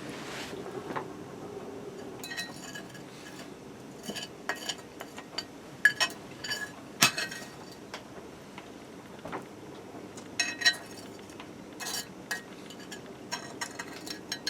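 A metal utensil clinking and scraping against a metal pot while someone eats from it: irregular sharp clinks, loudest around the middle.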